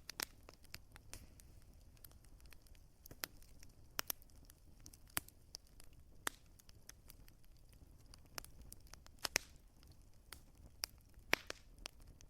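Wood fire crackling: irregular sharp pops and snaps over a low, steady hiss, with the loudest pops a little after nine seconds and again about eleven seconds in.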